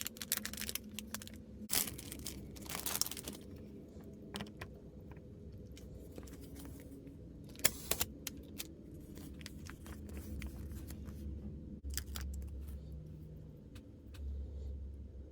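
Plastic packaging being opened by hand: crinkling and tearing in the first few seconds, then scattered small clicks and taps of tiny plastic pieces being handled.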